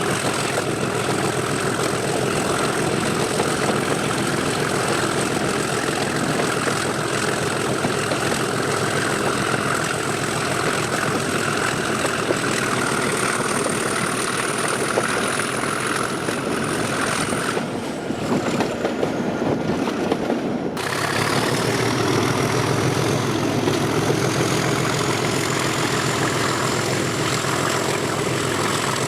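Class 37 diesel locomotive's English Electric 12CSVT engine running under power, with its high turbocharger whistle. About two-thirds of the way through, the whistle falls away and the engine sound thins for around three seconds. It then comes back, with the whistle rising again.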